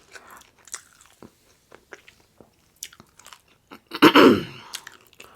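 Close-miked mouth sounds of someone eating crispy rolled tacos: small wet clicks and crackles of chewing, with one loud crunching bite about four seconds in.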